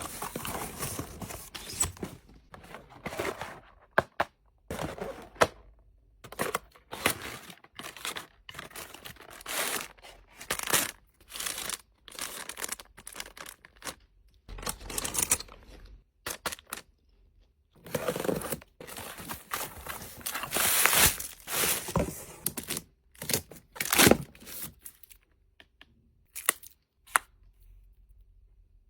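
Packaging being torn open and crinkled by hand, in irregular rustling bursts with sharp tearing sounds and short pauses.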